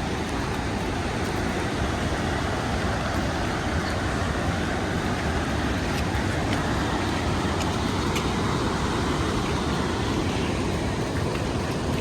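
Large waterfall rushing: a loud, steady, unbroken wash of falling water.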